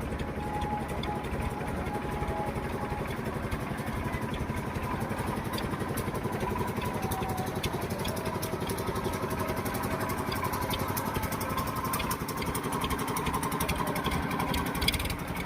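Tractor engine running steadily with a fast, even chugging pulse.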